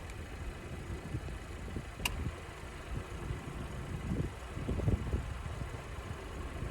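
Car engine idling, heard from inside the cabin as a steady low rumble, with a single light click about two seconds in.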